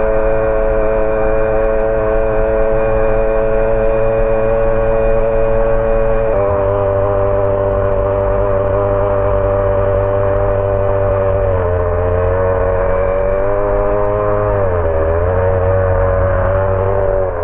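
HPI Savage X 4.6 nitro truck's small glow-fuel engine running at a steady idle, its pitch wavering briefly a few times.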